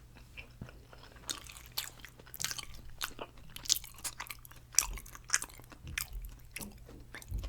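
Close-up chewing and crunching of a mouthful of roasted carrot, in many short irregular crunches.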